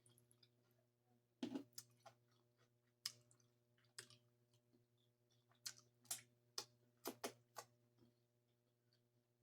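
Quiet eating sounds: about ten scattered soft clicks and mouth smacks while chewing, over a steady low electrical hum.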